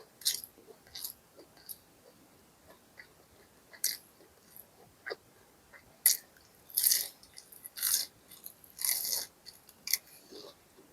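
Close-up eating of crispy fried fast food: crunchy bites and chewing in separate crisp bursts, coming closer together and lasting longer in the second half.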